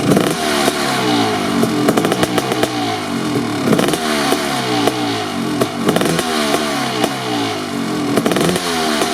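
Kawasaki KX500's 500cc single-cylinder two-stroke engine, breathing through an FMF Gnarly expansion chamber and silencer, being revved in repeated short throttle blips while warming up. The pitch drops back after each blip, with bigger revs near the start, about halfway through and near the end, and sharp crackles from the exhaust.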